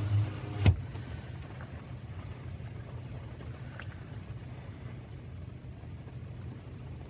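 Car engine idling, heard from inside the cabin, with one sharp thump a little under a second in. After the thump the high hiss drops away.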